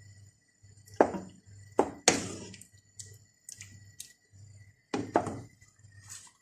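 Metal utensil knocking against a cooking pan: a sharp clack about a second in, two near two seconds and two about five seconds in, each ringing briefly. A faint low hum pulses about twice a second underneath.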